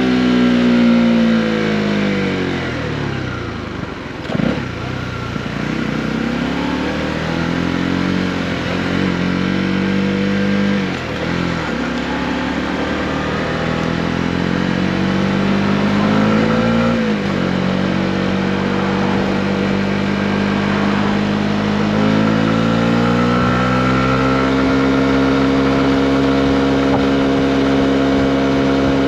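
Honda CB125R's single-cylinder 125 cc four-stroke engine on the move: it slows for the first few seconds, gives a short blip about four seconds in, then pulls up with a drop in pitch at a gear change about eleven and again about seventeen seconds in. It steps up a little at about twenty-two seconds and then runs at a steady cruise.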